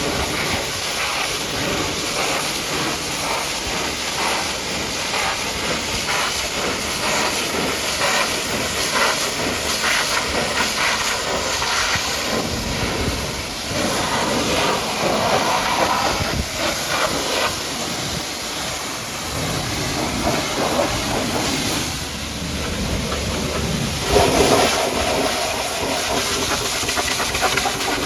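High-pressure washer jet spraying water onto a muddy truck: a steady hiss whose tone shifts now and then as the spray moves over the surface.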